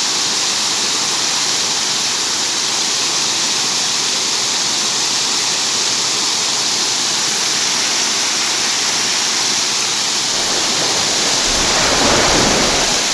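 Steady hiss of heavy rain falling. Near the end it swells into a louder whoosh with a low rumble for about two seconds.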